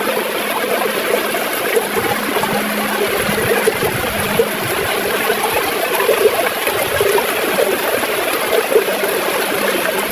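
River water flowing and gurgling steadily, with a constant busy bubbling.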